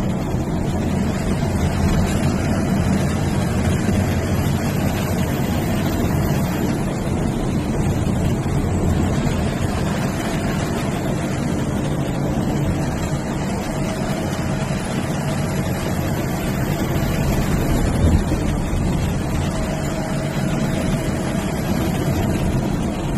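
MSRTC bus's diesel engine and road rumble heard from inside the moving bus, with the turbocharger's high whistle slowly rising and then dropping away three times.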